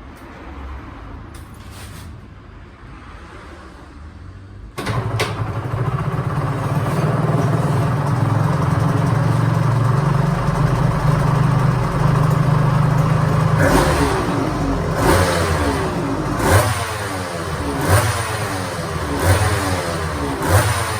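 Aprilia RS250's two-stroke V-twin engine catching about five seconds in and settling into a steady idle. From a little past halfway it is blipped repeatedly, about six short revs, each rising and falling in pitch.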